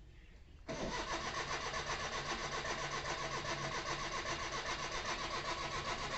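Maruti 800's starter motor cranking its small three-cylinder petrol engine: it starts suddenly about half a second in and goes on as a steady, rapid rhythmic churn without the engine catching.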